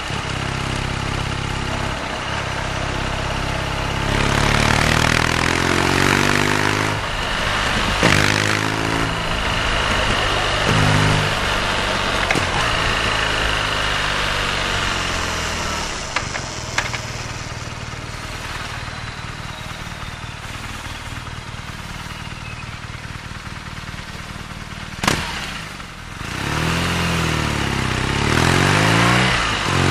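BMW R nineT boxer-twin motorcycle engine idling, then pulling away with rising revs through gear changes about four seconds in, settling back to a steady low run, and accelerating again near the end. A single sharp click comes shortly before the second pull-away.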